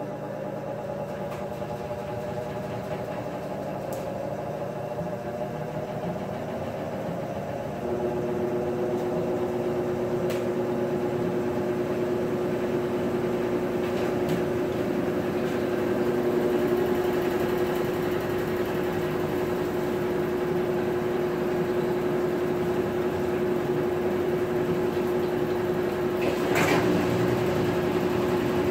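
Maytag top-load agitator washing machine running: a steady motor hum that steps up and gets louder about eight seconds in, with a sharp click near the end.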